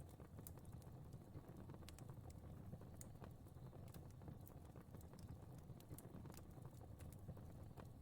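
Quiet fire crackling: irregular small pops and ticks over a low, steady rumble of burning flames.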